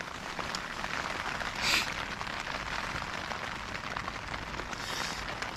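Steady rain pattering on the tent fabric, heard from inside the tent, with a brief louder hiss a little under two seconds in.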